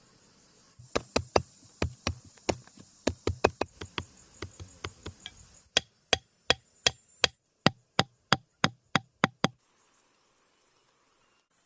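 Repeated sharp knocks, irregular for the first few seconds and then an even run of about three a second, stopping about two seconds before the end.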